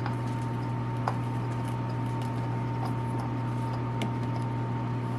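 A few sharp clicks and taps of a socket and small bolts being handled while the oil filter cover bolts are started by hand, over a steady low hum with a faint thin whine.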